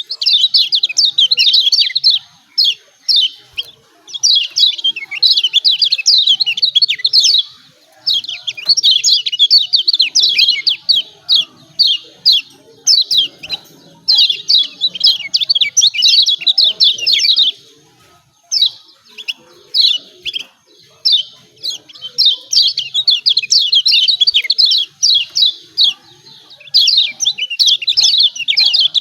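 Kecial kuning, a yellow white-eye, chattering in rapid, high 'ciak ciak' calls, in loud phrases a few seconds long with short pauses between.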